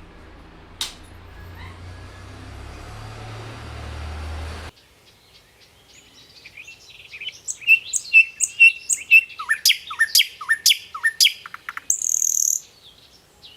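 A bird calling in a quick series of loud, sharp chirps, some with falling notes, followed by a short high hiss near the end. Before the chirps, a steady low hum cuts off suddenly a few seconds in.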